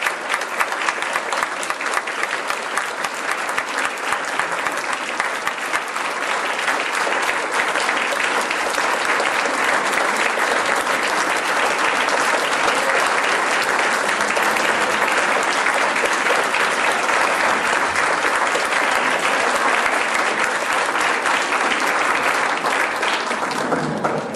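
Congregation applauding at length, the clapping growing fuller after several seconds and stopping abruptly near the end.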